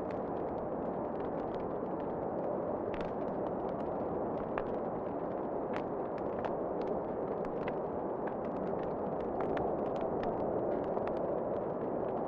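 Wood fire crackling, with irregular sharp pops and snaps scattered through it, over a steady rush of wind.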